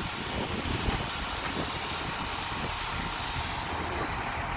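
Steady roar of truck engines running in a truck-stop lot, with a low rumble and an even hiss.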